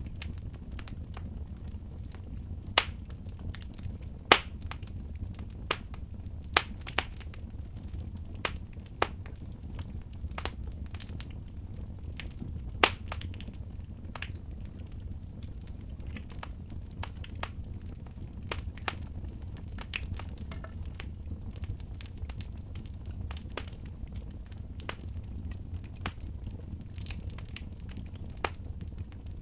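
Wood fire crackling in a fireplace: irregular sharp pops and snaps over a steady low rumble, with the loudest pops about three, four and thirteen seconds in.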